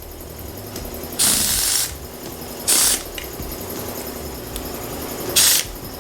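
Pneumatic bead breaker on shop air working a tire bead off an alloy wheel. Three short bursts of air hiss, about a second in, near three seconds and past five seconds, over a low steady mechanical rumble.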